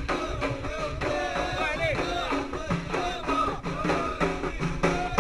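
Ahidous music: voices singing a bending, chanted melody over frame drums (bendir) beating a regular rhythm.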